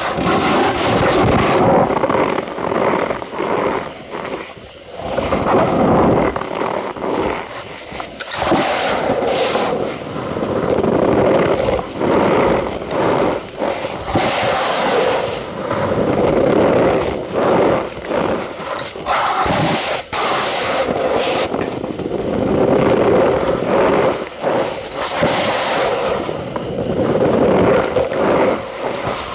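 Cornstarch powder being squeezed and crushed by hand, a squeaky crunching that comes in repeated swells a second or two long, with sharp crackles between.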